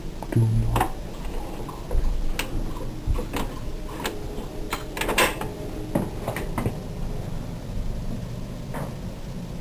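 Irregular sharp clicks and knocks, about ten over several seconds, over a steady low rumble.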